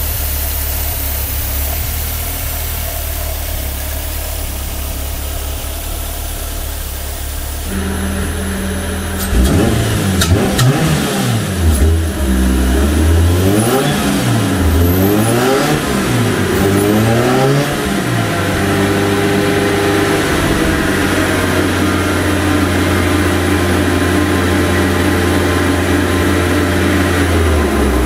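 Toyota 4A-GE twin-cam four-cylinder engine, freshly rebuilt, blipped up and down four or five times in quick succession about a third of the way in, then held at a steady speed. This follows a stretch of steady low hum.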